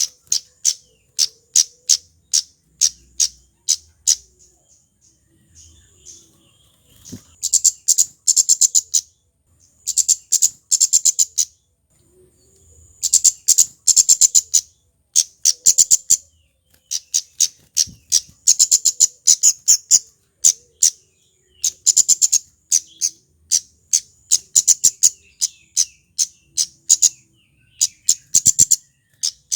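Male kemade flowerpecker (kemlade merah) calling: sharp, very high ticking notes, spaced at first and then delivered in fast rattling runs of a second or so, repeated again and again.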